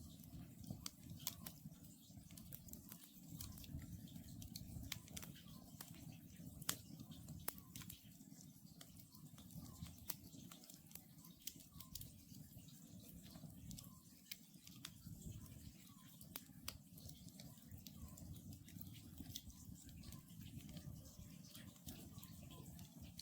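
Wood campfire crackling: frequent sharp pops and ticks, irregularly spaced, over a low steady rumble from the burning logs. Faint, distant calls of an Oriental scops owl sound now and then behind the crackle.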